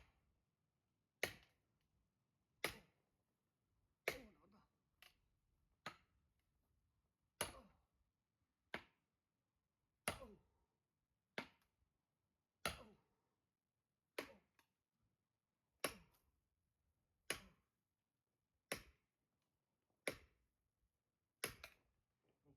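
Firewood being split: a steady series of sharp blows on a log, about one every second and a half, each hit short with a brief ring.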